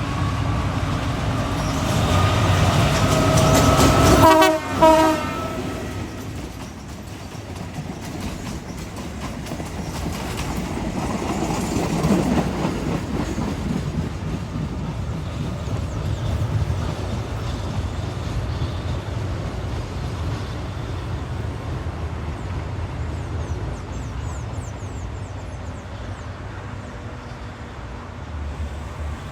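A train horn sounds for about four seconds, ending in a couple of short blasts. Then the train rumbles steadily past along the tracks, slowly fading.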